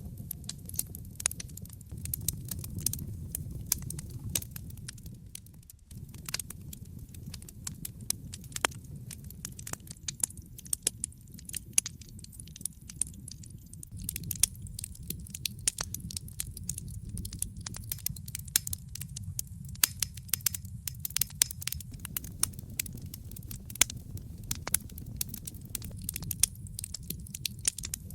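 Campfire crackling, with many irregular sharp snaps and pops over a low, steady rumble of the burning fire.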